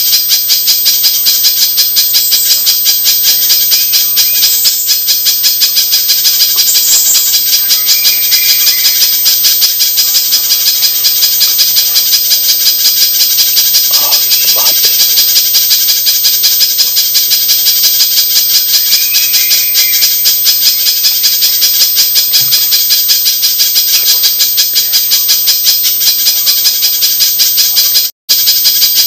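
Spiderhunter (pijantung) lure call track: rapid, evenly repeated high chips in a dense rattling stream, cutting out for an instant near the end where the recording loops.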